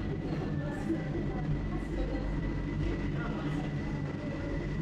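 Revolving sushi restaurant ambience: a steady low hum with a thin, steady high-pitched tone over it, faint background music and murmur, and a few light clicks and clinks.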